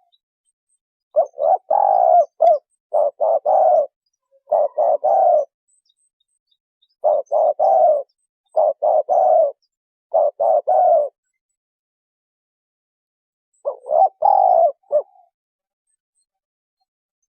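Spotted dove cooing: two series of three short, low coo phrases, each made of several quick notes, separated by a pause of about two seconds, then a single further phrase near the end.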